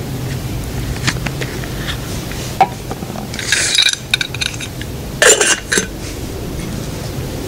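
Metal camp cookware being handled. There are a few light clinks, then two short clattering rattles about three and five seconds in.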